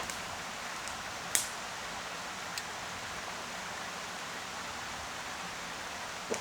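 Steady rush of a stream flowing past. A sharp click comes about a second and a half in, and a fainter one a second later.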